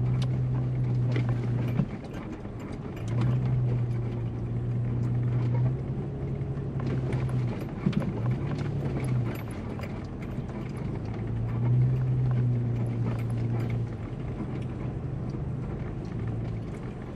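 Vehicle driving slowly over a rutted track: a low engine hum that swells and eases several times, with scattered knocks and rattles as it goes over the bumps.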